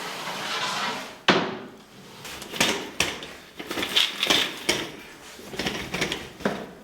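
Clatter of bakery work: one sharp bang about a second in, then a run of lighter knocks and clinks, like tools and trays set down on a work surface.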